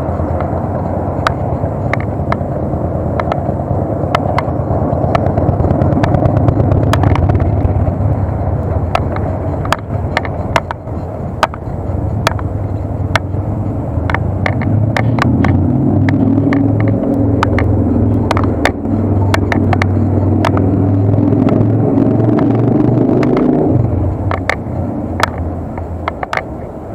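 Wind and road rumble on a bike-mounted SJ4000 action camera while riding, with many sharp clicks and rattles. From about halfway in, a motor vehicle's engine hum runs alongside, then cuts off a few seconds before the end.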